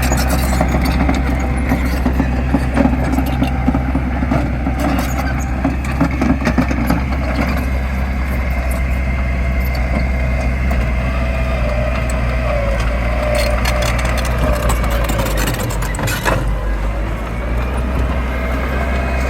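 Heavy diesel machine engine running steadily, with scattered clanks and rattles.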